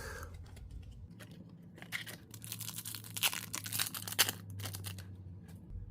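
Upper Deck hockey card pack wrapper being torn open and crinkled, with a dense run of crackling from about two seconds in.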